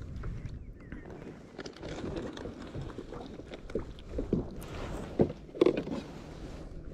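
Scattered irregular knocks and clicks over a low rumble, typical of gear being handled on a small fishing boat, with two louder knocks a little past halfway.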